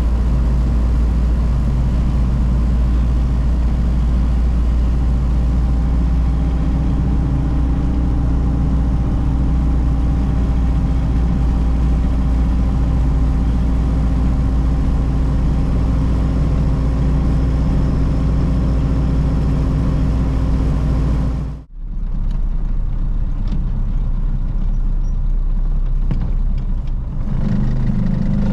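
1932 Ford Model B four-cylinder engine running steadily while the car cruises, heard from inside the cabin along with road noise. About three-quarters of the way through the sound breaks off for a moment. It resumes softer and picks up again near the end.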